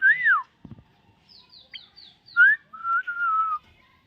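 Common myna whistling: clear rising and falling whistled glides, a quick run of about five short, high, falling notes, then a longer held, slightly wavering whistle.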